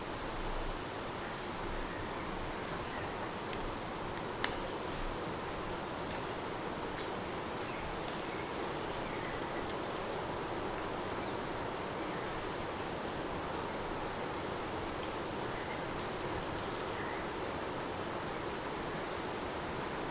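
Steady rain ambience, an even hiss throughout, with short high chirps mostly in the first half. A few sharp clicks sound in the first six seconds.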